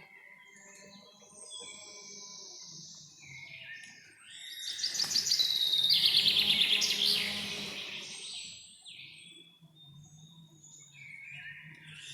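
Several songbirds singing and calling, with short high chirps throughout. A loud, rapid trilling song of quickly repeated notes starts a little after four seconds in and lasts about three seconds.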